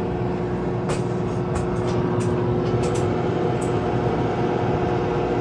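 Microwave oven running with a loud, steady hum and a handful of sharp crackling clicks between one and four seconds in, a very strange noise. It is running without heating the water, even with a new fuse fitted.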